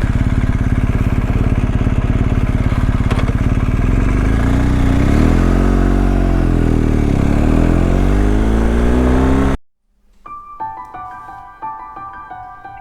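Motorcycle engine running at road speed over a steady rush of noise, its pitch dipping and climbing again about five seconds in. It cuts off suddenly near the end, and gentle piano music takes over.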